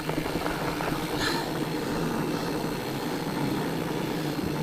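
Fat bike's wide knobby tires rolling along a dirt trail with a steady droning hum.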